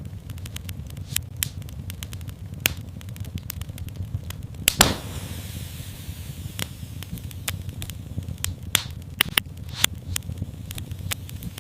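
Wood fire in a fireplace crackling steadily over a low rumble of flames, with one loud pop about five seconds in and a quick run of sharp pops near the end.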